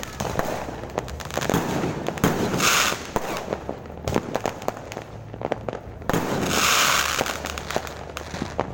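Fireworks going off: a rapid string of sharp pops and bangs, with a short hissing burst about three seconds in and a longer one around six to seven seconds.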